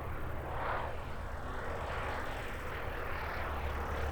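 Light propeller aircraft engine running steadily, a low drone with uneven swells of engine noise.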